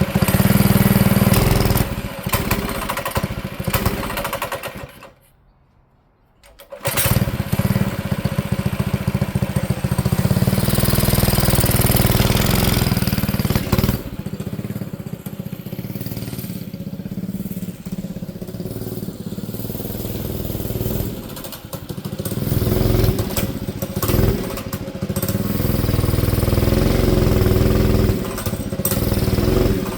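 Small engine of a Manco Streaker mini bike running, dropping out to near silence for a couple of seconds about five seconds in and then running again with the level rising and falling. The owner takes its poor running for a carburettor needing tuning: it only likes to move under choke, a sign it wants a richer idle mixture.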